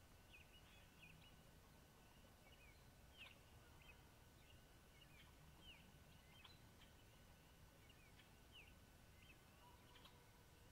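Near silence with faint, scattered high chirps of small birds, several a second at times, over a low rumble.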